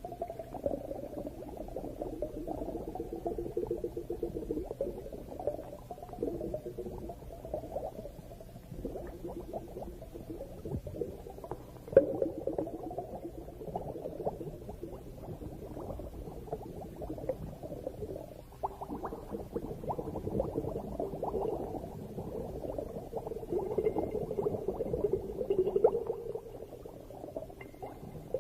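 Bubbling and gurgling recorded underwater, with scattered small clicks and one sharp click about twelve seconds in.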